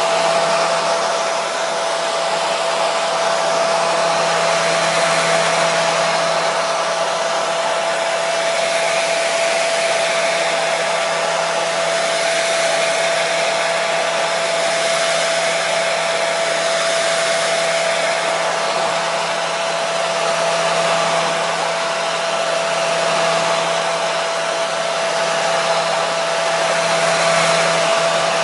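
Hair dryer blowing steadily: an even rush of air with a constant motor whine running through it.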